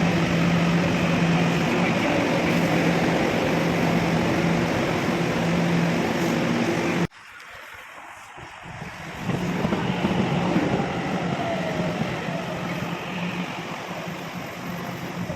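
Heavy rain pouring down, a dense steady hiss with a low steady hum under it. It cuts off abruptly about halfway through, then the rain noise swells back up a couple of seconds later.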